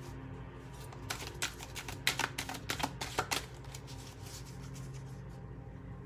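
A deck of oracle cards being shuffled: a run of quick card snaps and riffles from about one second in until about three and a half seconds in, then quieter handling.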